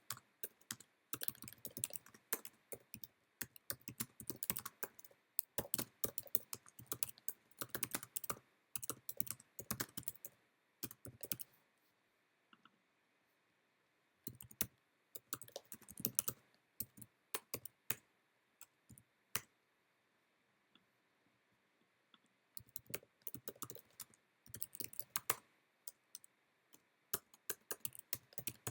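Typing on a computer keyboard: runs of quick keystrokes, broken by two pauses of a few seconds around the middle.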